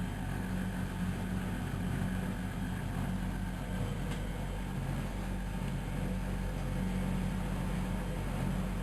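Miele Novotronic W120 washing machine running with a steady hum.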